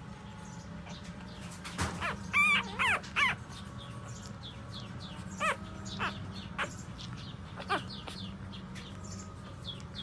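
Newborn puppies squealing and whimpering: a quick run of high, falling cries about two seconds in, then a few single cries later.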